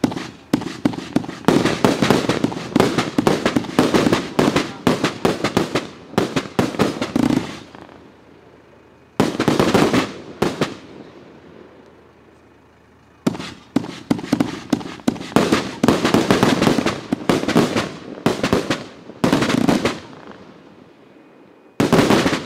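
Riakeo 'Dubai' 84-shot, 30 mm firework cake firing rapid volleys of shots that burst overhead. It comes in a long flurry, a short one, another long flurry, and a brief last volley near the end, with pauses of two or three seconds between them.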